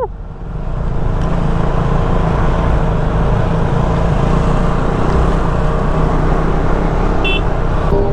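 Motorcycle engines of a riding group running together, giving a steady low rumble.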